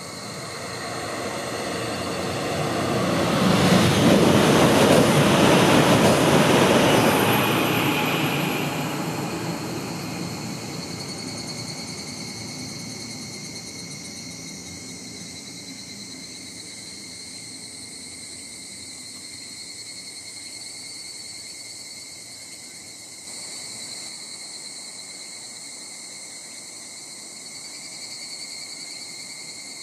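A Shinkansen high-speed train passing at speed: a rushing roar that swells to its loudest about four to seven seconds in, then fades away. A steady high insect chorus buzzes throughout.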